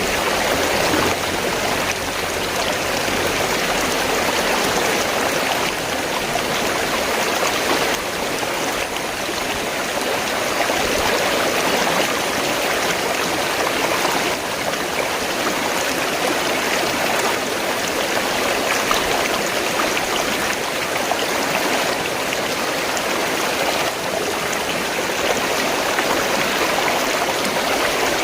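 River water flowing, a steady, even sound with no breaks or changes.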